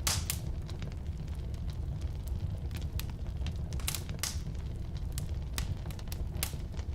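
Firewood burning in a fireplace or wood stove: a steady low rumble of flame with irregular sharp crackles and pops from the wood, the loudest right at the start.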